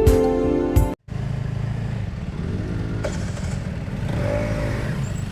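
Background guitar music cuts off about a second in, giving way to a motorcycle engine running with a steady low rumble and a couple of brief rises and falls in pitch.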